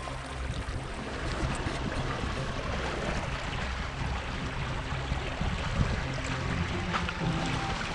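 Water rushing and trickling along the hull of a Windrider 17 trimaran sailing under way, a steady wash without a beat or tune.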